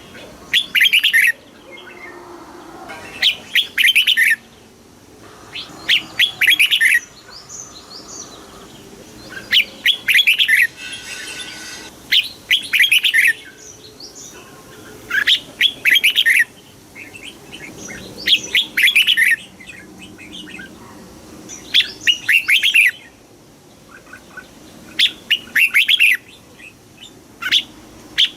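Red-whiskered bulbul singing: short, bright warbled song phrases repeated about every three seconds.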